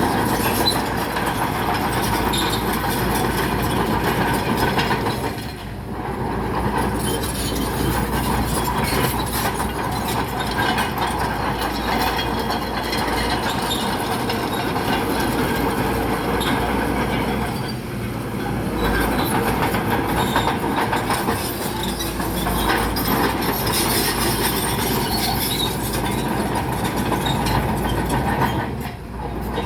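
Bulldozer running under load, its steel tracks clanking and rattling steadily as it pushes rock, with brief lulls about six and eighteen seconds in and near the end.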